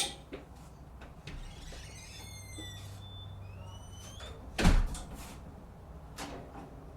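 A door shutting with one loud thump about two-thirds of the way through, after a sharp click at the start and a few brief high squeaky chirps.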